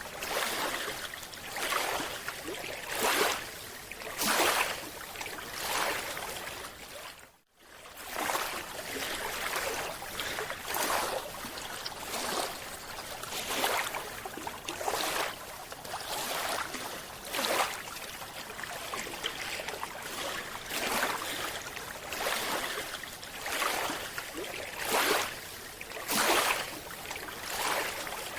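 Scuba diver's regulator exhaust bubbles heard underwater: repeated gurgling bubble bursts about once a second over a steady watery hiss, with a brief silent gap about seven and a half seconds in.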